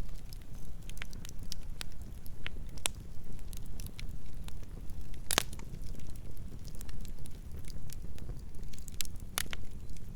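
Wood fire crackling: irregular sharp pops and snaps over a low steady rumble, with two louder pops, one about five seconds in and one near the end.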